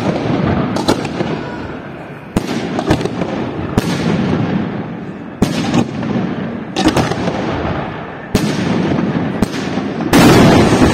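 Aerial fireworks shells bursting overhead: about ten sharp bangs at irregular intervals, each trailing off in a rolling echo. About a second before the end, a sudden, louder continuous rush of noise sets in as the fireworks go off on the ground.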